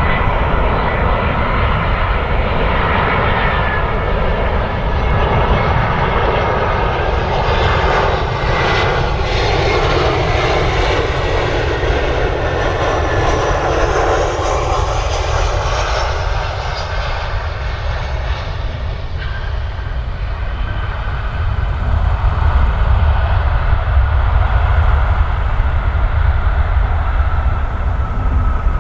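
Jet airliner passing by: engine noise with a faint whine swells to a peak about ten to fifteen seconds in, then fades away over a continuous deep rumble.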